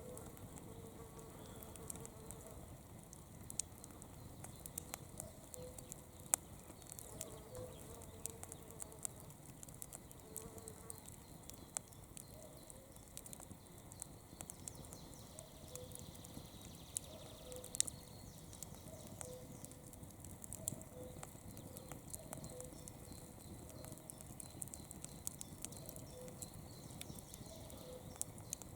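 Campfire burning, with many irregular sharp crackles and pops over a soft low rumble of flame. In the second half a faint short note repeats about once a second.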